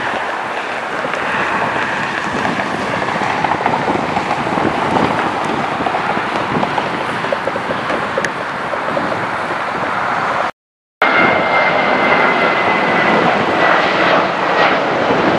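Jet airliner engine noise: a loud, steady rushing sound. It cuts out abruptly for a moment about ten and a half seconds in, and after the cut a thin high whine from the jet's engines drifts slowly lower.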